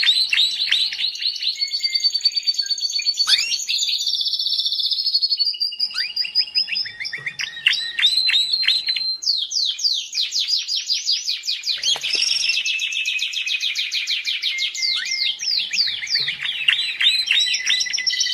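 Domestic canary singing a long, fast song of rapid trills and repeated high chirping notes, with a few held whistled notes between the trills and hardly a pause.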